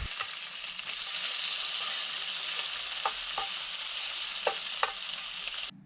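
Bacon frying in a pan, a steady sizzle with a few sharp pops in the second half; it cuts off suddenly near the end.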